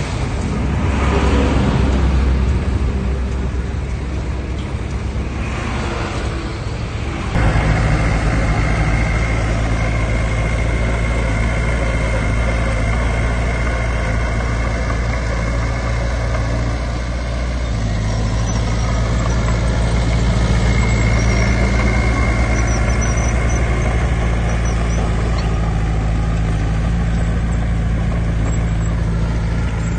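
Heavy diesel earthmoving machinery running. About seven seconds in the sound changes abruptly to a steady engine note with a faint high whine, and the note shifts slightly a little past halfway.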